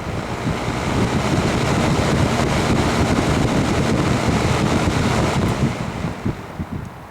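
Vintage all-metal Kmart box fan running on high, its blades pushing a steady rush of air across the microphone. The rush builds over the first second, then after about five and a half seconds the fan is switched off and starts to wind down, with a few small knocks near the end.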